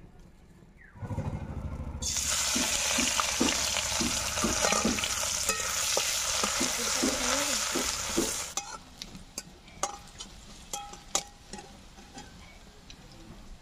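Sliced onions frying in hot oil in a metal karahi: a loud sizzle starts suddenly about two seconds in as they hit the oil, with a metal spatula scraping and stirring through it. After about six seconds the sizzle drops to a faint hiss, with occasional clicks of the spatula against the pan.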